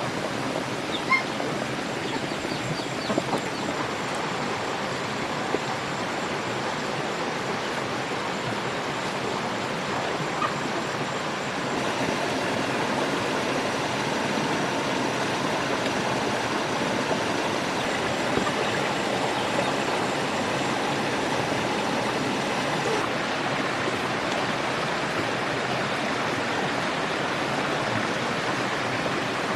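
A steady rushing noise like flowing water, with a few light clicks in the first few seconds. It grows slightly louder about twelve seconds in.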